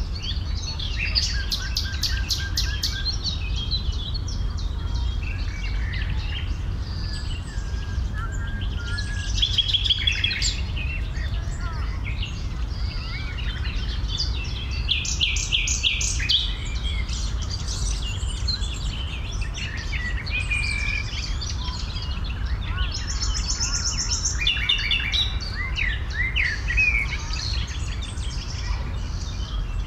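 Several birds singing and calling at once, overlapping chirps and phrases with rapid runs of repeated notes, over a steady low rumble.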